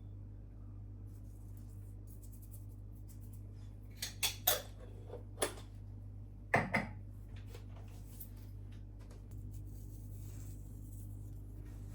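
Kitchenware being handled: a few short clinks and knocks of dishes and cutlery in a cluster near the middle, the loudest a heavier knock, over a steady low hum.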